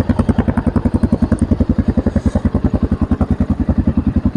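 Shineray CXR 250 4V's single-cylinder four-valve engine idling steadily with an even, deep exhaust beat of about a dozen pulses a second; the engine is still cold.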